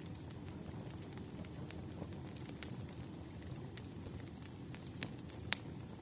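Wood fire crackling: scattered sharp pops and snaps over a low, steady rumble, the loudest pop about five and a half seconds in.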